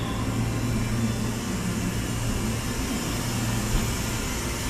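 Steady hum and fan-like hiss of a 285-series Sunrise Express electric sleeper train standing at the platform with its onboard equipment running, with one small click near the end.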